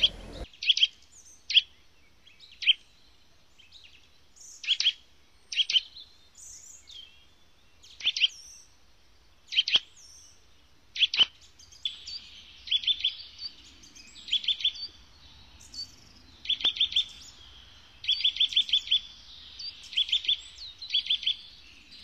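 A bird calling with short, sharp high chirps, singly or in pairs at first, then in quick runs of three to five notes from about halfway on.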